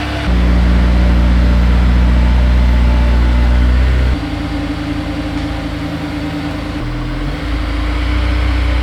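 Honda S2000's four-cylinder engine idling steadily just after starting, its tone dropping in level about four seconds in and rising briefly in pitch near seven seconds.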